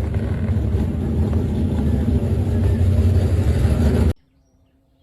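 V8 muscle-car engine running loud and steady, cutting off suddenly about four seconds in.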